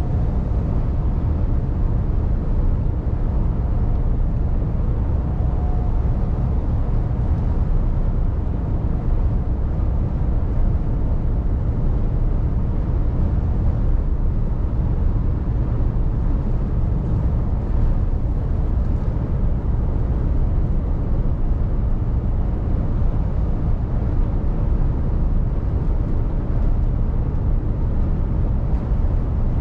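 Mercedes Actros truck on the move: a steady low engine drone mixed with road and tyre noise.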